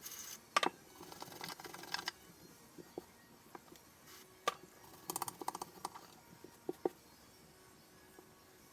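Metal parts of a PPSh-41 submachine gun being handled and fitted together. There is a sharp click about half a second in, then a second of quick rattling clicks, another single click, a fast run of clicks midway and two last clicks.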